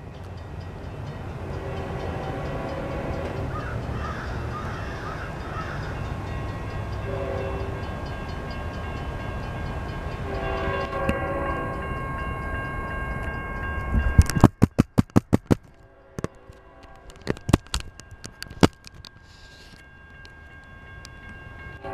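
Train approaching: a steady low rumble with several short horn sounds, then a quick run of sharp clicks and knocks about two-thirds of the way in.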